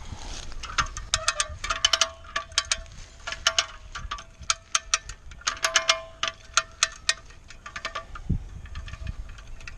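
Come-along cable puller being ratcheted by hand: clusters of sharp metallic clicks with a ringing note, one cluster about every second as the handle is worked, with a short pause near the end.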